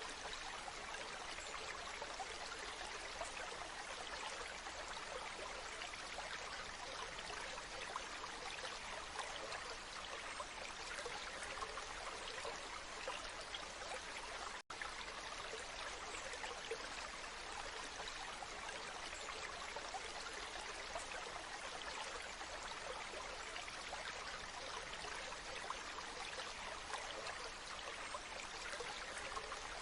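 Waterfall: water falling and splashing in a steady, even rush, with a split-second dropout about halfway through.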